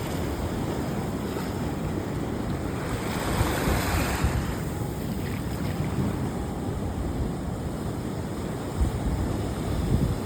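Mediterranean surf washing on a beach, with wind rumbling on the microphone. One wave surges in with a louder hiss about three to four seconds in.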